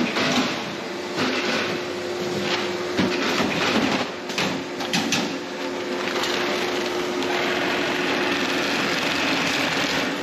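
Industrial bag-closing sewing machine on a potato bagging line being tried out, running over a steady machinery hum, with several sharp knocks in the middle. It works, but the seam cuts off too soon.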